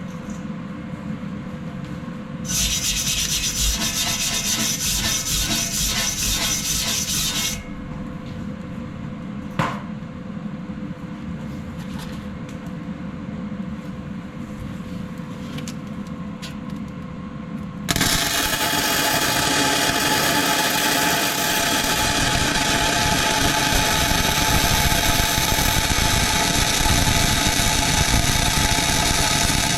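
Power tool grinding and sanding steel, running in stretches: a brighter, hissing pass for a few seconds, a quieter stretch with a sharp click, then louder steady grinding for the last twelve seconds.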